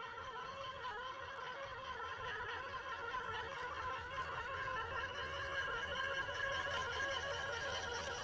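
Scale RC crawler's Hobbywing Fusion electric motor and geared drivetrain whining under throttle, a steady whine that wavers slightly in pitch.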